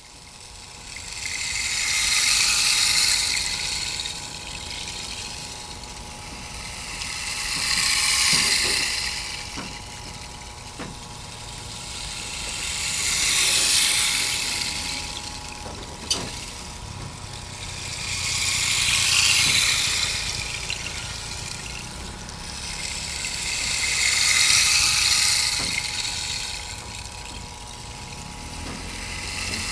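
Sound-art piece: hissing, wave-like swells of noise that rise and fall about every five and a half seconds over a low steady rumble and faint held tones, with a single sharp click about halfway through.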